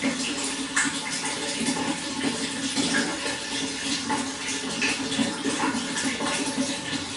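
Running water flowing steadily, with many small splashes and gurgles through it.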